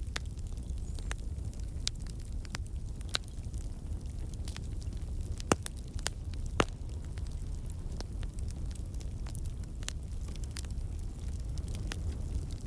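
Wood campfire burning: a steady low rumble of flame under scattered sharp crackles from the logs, with two louder pops in the middle. The crackling comes from water and sap trapped in the wood bursting out as steam.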